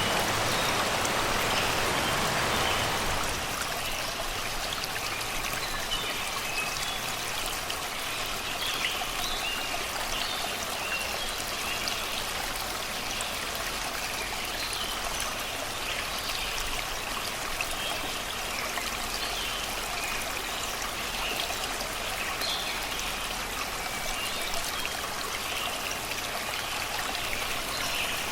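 Shallow river babbling over rocks and stones, with birds chirping and singing in the forest throughout. The water is a little louder for the first three seconds, then settles slightly lower.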